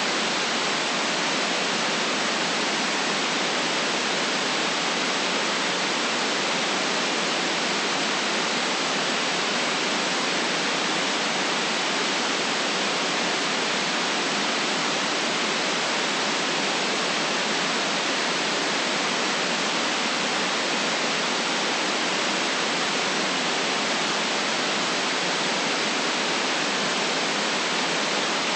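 Steady white noise: an even, unchanging hiss from about 150 Hz up to 8 kHz, with no low rumble and no events.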